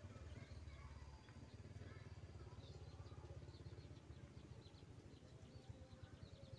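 Near silence outdoors: a faint steady low rumble, with faint high bird chirps repeating through the second half.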